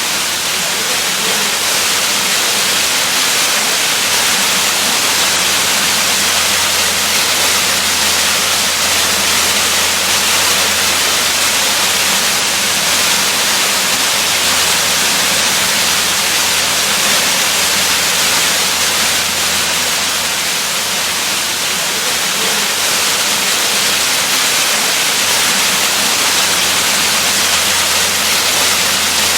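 Waterfall: water pouring and splashing in a steady, dense rush, loudest in the upper range, with no change throughout.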